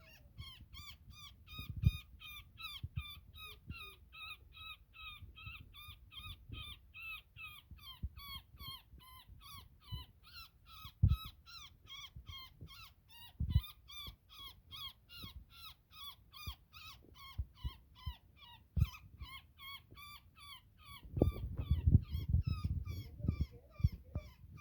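Woodpecker caught in a net giving shrill, evenly repeated distress calls, about three a second without a break. Scattered low thumps, and a few seconds of rustling and knocking near the end, come from the bird being handled and the netting being worked.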